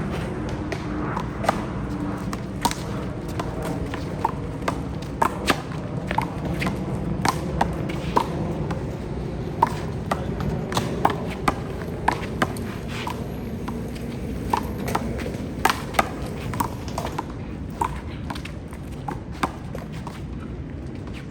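Rubber handball being struck by hand and smacking off the wall and ground during a rally: irregular sharp slaps, about one every half second to second, over a steady hum of city background noise.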